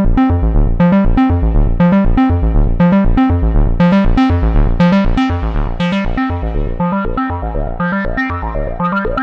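Moog Subsequent 25 analog synthesizer playing a fast, steadily repeating sequenced pattern of bright, punchy notes over a bass line.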